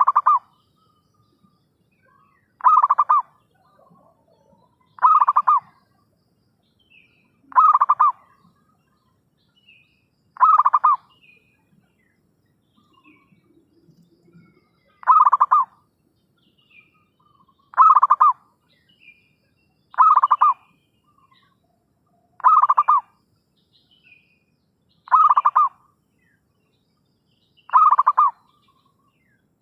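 Zebra dove (perkutut) cooing: a rapid stuttering coo repeated eleven times, about every two and a half seconds, with one longer pause midway. This is a perkutut lure call used to draw in wild doves. Faint high chirps of small birds sound between the coos.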